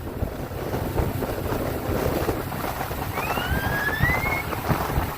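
Motorboat underway: a steady rumble with rushing wind and water on the microphone. About three seconds in, a high squeal rises in pitch for just over a second.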